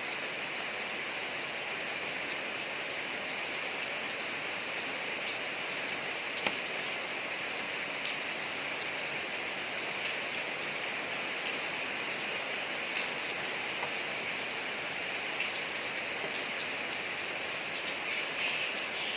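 Steady rain falling on a street, an even hiss with scattered individual drops ticking through it, one sharper drop about six seconds in.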